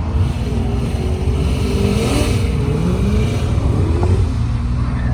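High-performance car engines accelerating hard down a drag strip, the engine note rising in several successive sweeps over a steady low rumble.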